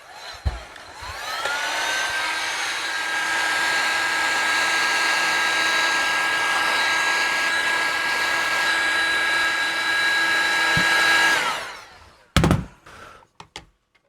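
Electric heat gun switched on, its fan whine rising as it spins up, then blowing steadily for about ten seconds to melt hot glue before being switched off. A few short knocks of handling follow.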